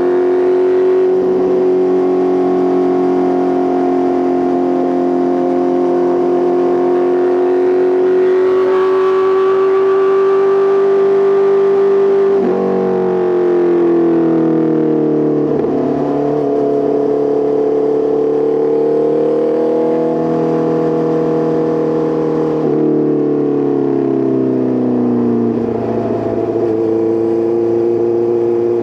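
Honda CBR650R inline-four engine running through an Arrow Pro Race titanium full exhaust while riding. The note holds steady for about twelve seconds, then drops suddenly and climbs again. A few more sudden pitch changes follow later, as with gear changes.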